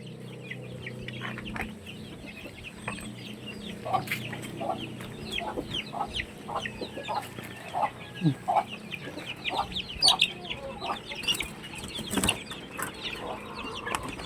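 Backyard chickens clucking, mixed with many short, high, falling calls.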